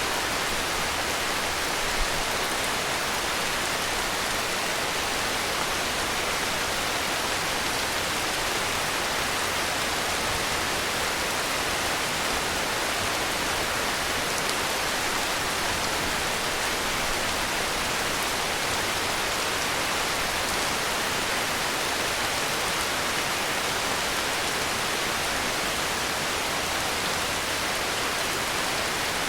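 Heavy rain falling steadily, an even hiss with no thunder, with one brief tick about two seconds in.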